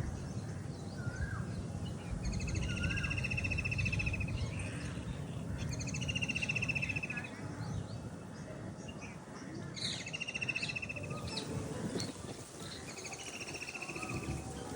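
Park birds singing: one bird repeats a fast, trilled phrase of about one to two seconds roughly every four seconds, with other birds giving short chirps, over a steady low background rumble.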